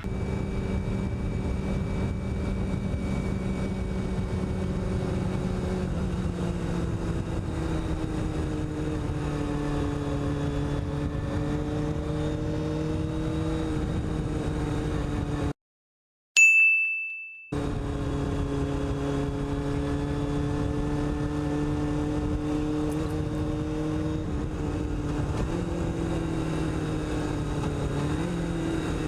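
Motorcycle engine running at a steady road speed, its note sinking and rising slowly. About halfway through the sound cuts out for two seconds, and a single sharp ding rings out and fades in the gap.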